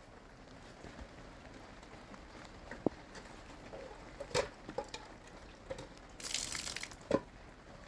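Water trickling, with scattered sharp clicks and knocks and a short hiss of water about six seconds in.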